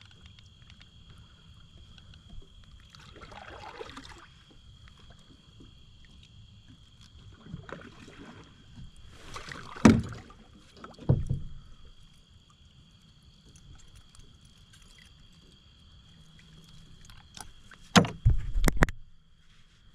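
Knocks and bumps on a kayak with water and handling noise: two loud knocks about ten and eleven seconds in, and a cluster of sharp clicks and knocks near the end. A faint steady high tone runs underneath.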